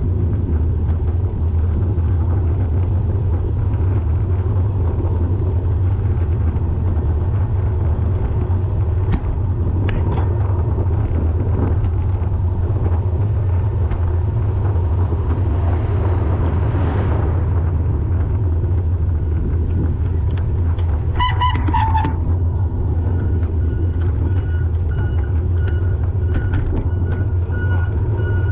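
Vehicle engine running with a steady low rumble. A short pitched tone sounds about 21 seconds in, and from about 23 seconds a rapid high beeping starts.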